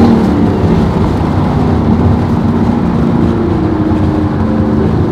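Supercharged 6.2-litre V8 of a Chevrolet Camaro ZL1, tuned with a 750 hp supercharger-pulley package, running steadily while the car is driven. Heard from inside the cabin as a loud, low, even exhaust note.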